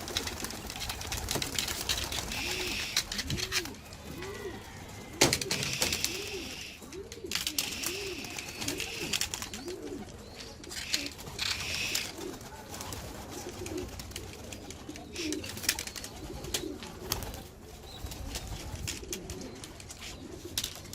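Domestic homing pigeons cooing: a run of short rising-and-falling coos, about one a second, that trails off near the end, with scattered clicks and rustles.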